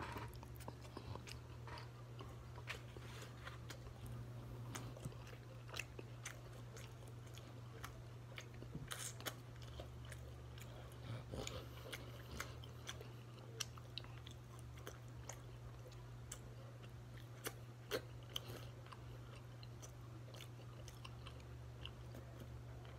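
A person chewing and biting into smoked neck bones: scattered short clicks and mouth noises come irregularly, with a steady low hum underneath.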